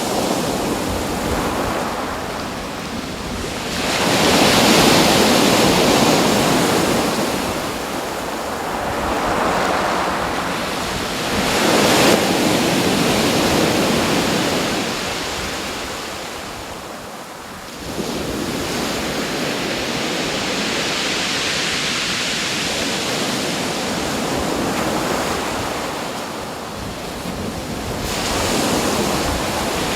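Waves washing in and receding: a rushing noise that swells and fades every several seconds, with wind rumbling on the microphone.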